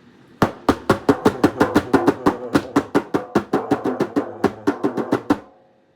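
A drum sound effect: a quick, even run of about thirty drum hits, around six a second, ending with a short ringing fade.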